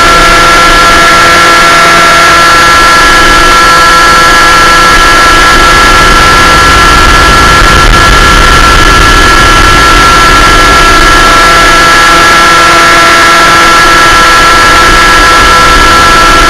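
Small aircraft engine running steadily at one throttle setting, heard loud and close with a constant high whine over a rush of air noise.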